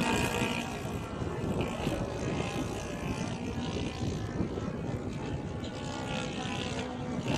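Propeller engine of a radio-controlled Seagull Edge 540 model aerobatic airplane, running steadily in flight.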